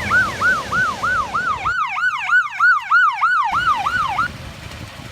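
Emergency vehicle sirens in a fast yelp, about three rising-falling sweeps a second. A second siren overlaps from about two seconds in, and the sirens stop about four seconds in.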